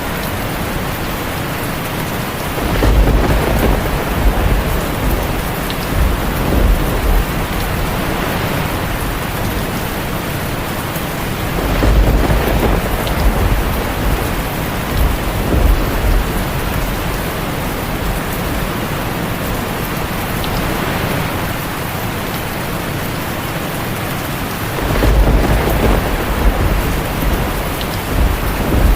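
Heavy rain falling steadily on a tin roof, with three rolls of low thunder: a few seconds in, about midway, and near the end.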